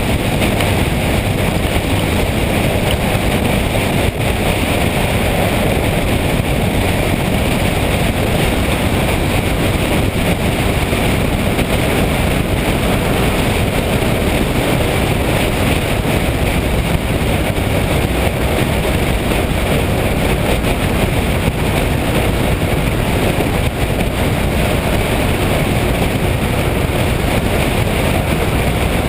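Motorcycle under way at a steady speed: a continuous rush of wind on the microphone, with road and engine noise beneath it.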